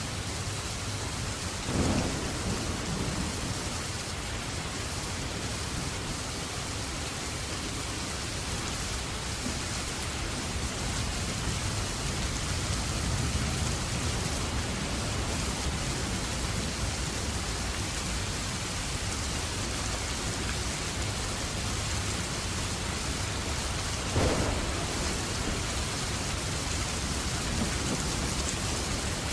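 Steady rain falling, a continuous even hiss. Two brief, louder claps come through it, one about two seconds in and another about five seconds before the end.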